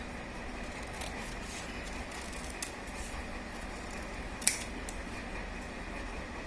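Scissors cutting paper: a few scattered snips and paper sounds, the sharpest snip about four and a half seconds in, over a steady faint background hiss.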